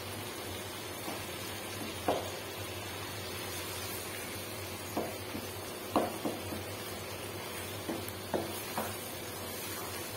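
Ridge gourd curry sizzling in oil in a nonstick wok as it cooks down, stirred with a wooden spoon that knocks and scrapes against the pan about six times.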